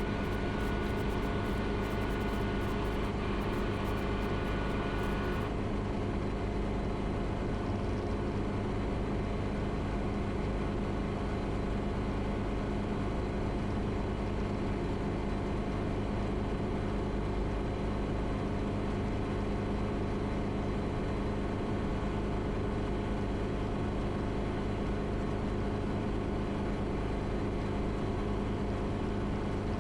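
Schweizer 300 helicopter's four-cylinder Lycoming piston engine and rotors running steadily in the climb just after takeoff, a level drone of many steady tones heard through the pilot's intercom audio. A higher hiss and a couple of high tones drop away about five seconds in.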